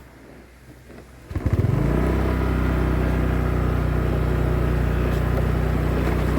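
An engine starts about a second in, catching within half a second, then runs at a steady idle.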